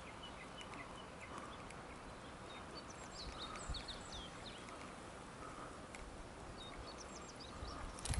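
Birds chirping with short whistled calls, in bursts about a third of the way in and again near the end, over a faint outdoor hiss; a single sharp click comes just before the end.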